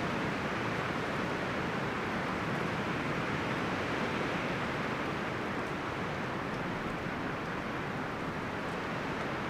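Wind blowing through forest trees: a steady rustling of leaves and branches, with no single sound standing out.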